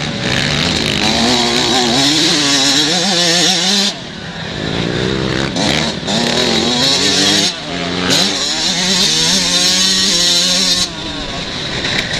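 Two-stroke 125 cc motocross bikes racing, engines revving up and down in pitch through the gears, with short drops in loudness about four, seven and eleven seconds in.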